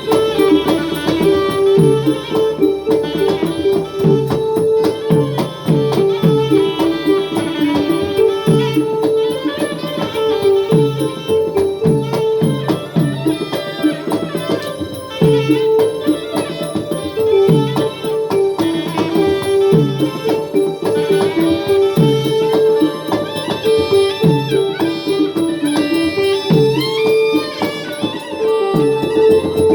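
Traditional southern Thai Manora (Nora) ensemble music, drum-led with a steady rhythm: repeated drum strokes that drop in pitch, under a short melodic figure that repeats over and over.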